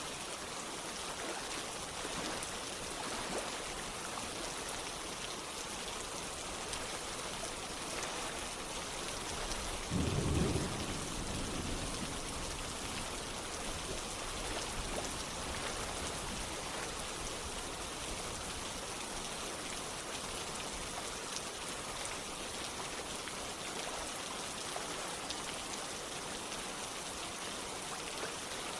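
Steady rain falling, an even hiss of drops. About ten seconds in comes a brief low rumble lasting a second or two.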